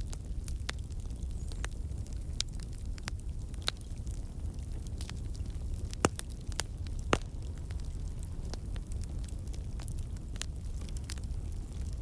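Wood campfire burning: a steady low rumble with scattered sharp crackles and pops from the burning logs, two louder pops about six and seven seconds in.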